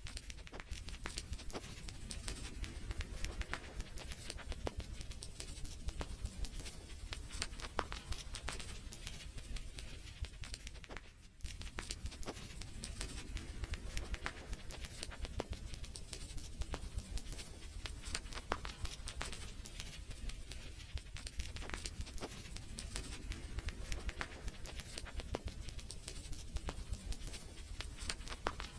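Wood fire crackling, with frequent irregular sharp pops and snaps over a steady low rumble. The sound briefly drops away about eleven seconds in.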